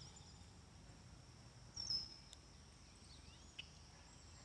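Faint songbird calls: one short, high, falling chirp about two seconds in, then a few softer chirps, over a low background rumble.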